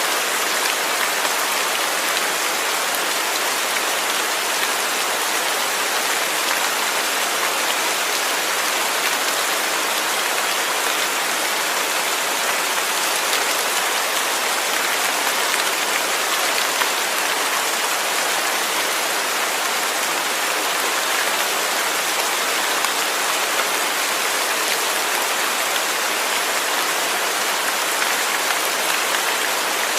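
Steady rain falling, an even hiss of countless drops hitting a surface with no lulls or thunder.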